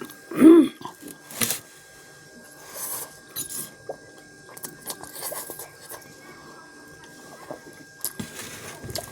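Eating sounds from spicy instant noodles: chewing with scattered small clicks and soft rustles. A short pitched vocal sound about half a second in is the loudest thing.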